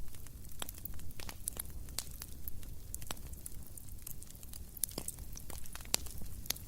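Small wood campfire crackling: irregular sharp pops and snaps, several a second, over a low steady rumble, with a couple of louder snaps about five and six seconds in.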